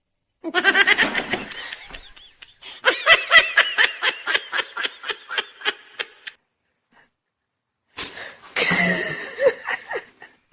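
A person laughing in three bouts, the middle one a long run of rapid ha-ha pulses about four a second.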